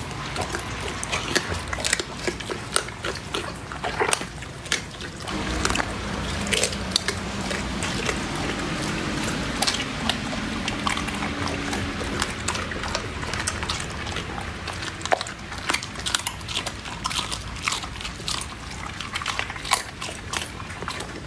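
A corgi chewing and crunching food, with wet mouth sounds and frequent sharp crunches.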